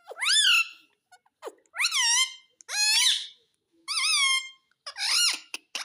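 A pet parrot calling in about six short, high-pitched, rising-and-falling calls, roughly one a second, in the pattern of its repeated "mummy".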